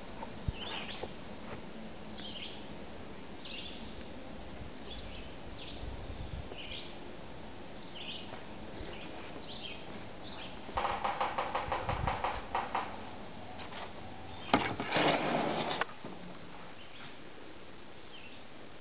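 Wild birds chirping, a short falling chirp repeated about once a second over a steady outdoor background. About two-thirds of the way in comes a quick run of even pulses for about two seconds. Shortly after, a sharp click is followed by a loud noisy burst lasting about a second.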